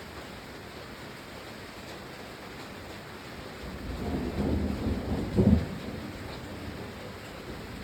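Steady rain falling, with a roll of thunder starting about four seconds in that peaks sharply and fades about two seconds later.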